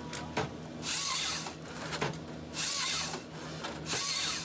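Forestry harvester working: a steady engine hum with a hissing rush that repeats about every second and a half.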